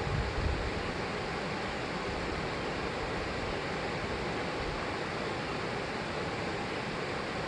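The New River rushing over the rapids at Foster Falls: a steady, even roar of falling water, with a brief low rumble about half a second in.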